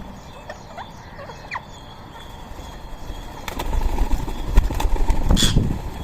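Birds calling in short chirps, then from about three and a half seconds a loud fluttering rush of wings as birds take off, with one sharp call near the end.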